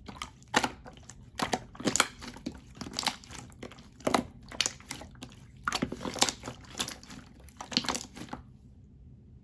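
Slime being squished and pressed by hand close to the microphone, making an irregular series of short clicks and crackles, a few each second, that stops about a second before the end.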